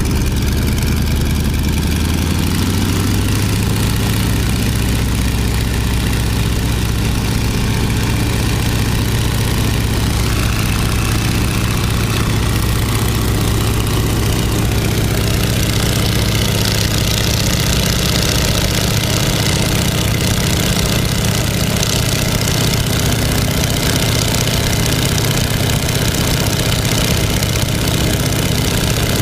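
Stearman PT-17 biplane's radial engine running steadily, with a low, even drone. From about halfway through, a strong hiss joins it.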